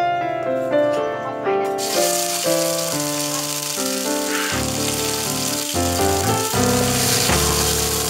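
Minced lemongrass paste sizzling in hot oil in a steel wok, the sizzle starting suddenly about two seconds in and then holding steady. Background instrumental music plays throughout.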